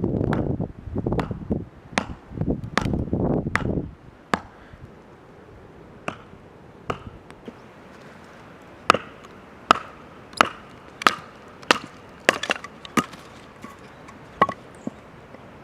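Firewood being split or chopped: about four seconds of loud rough scraping and crunching, then a series of sharp knocks on wood, mostly about a second apart, some with a brief ring.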